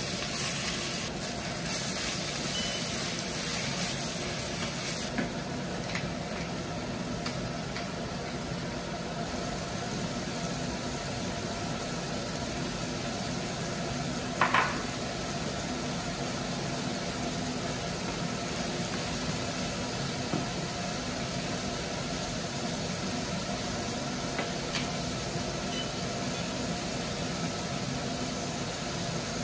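Food frying in a pan: a steady sizzle over a low hum, the hiss brightest in the first few seconds, with one short sharp sound about halfway through.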